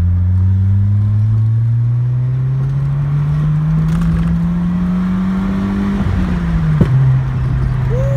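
Honda Civic hatchback's engine and aftermarket exhaust heard from inside the cabin, pulling through a gear with its note rising steadily for about six seconds. The note then drops off, with a sharp pop a moment later, a small backfire on lift-off. It settles into a steady lower drone.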